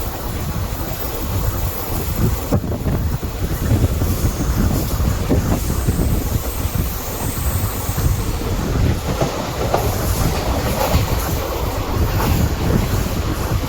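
Passenger train running along the track, its wheels clattering over rail joints above a steady low rumble.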